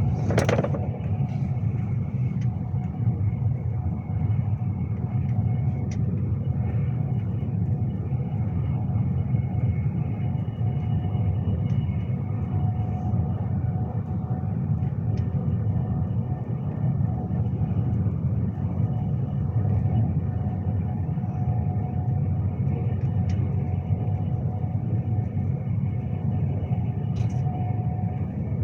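Steady low rumble of a Class 390 Pendolino electric train running, heard from inside the carriage, with a faint steady whine over it. A brief sharp knock comes right at the start.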